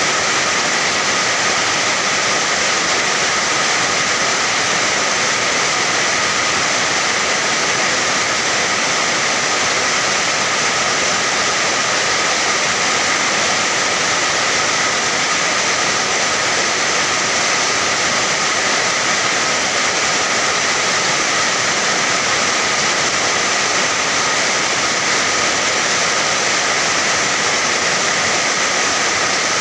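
Steady, unbroken rain, a dense hiss that stays even throughout, with no drips or thunder standing out.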